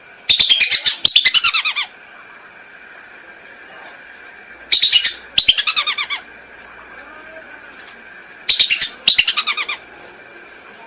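Whistling duck calls, a recorded lure call: three loud bouts of rapid whistled twittering, each made of two quick phrases of notes that fall in pitch, with short gaps between bouts. A faint steady tone sits under the calls.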